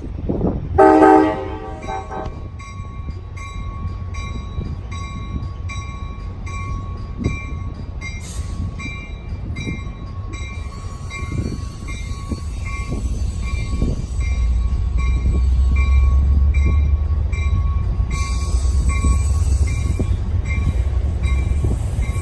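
A passing diesel train: a short horn blast about a second in, then a warning bell ringing steadily about twice a second while a low engine and wheel rumble builds from about two-thirds of the way through, with a hiss of wheel and rail noise near the end.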